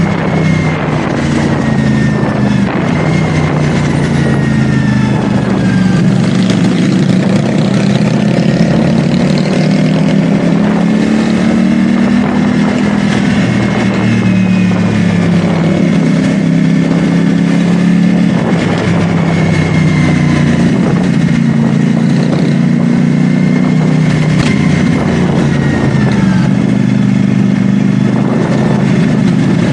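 CFMoto 450SR S parallel-twin engine running under way, its revs repeatedly rising and falling with throttle and gear changes, over wind and road noise.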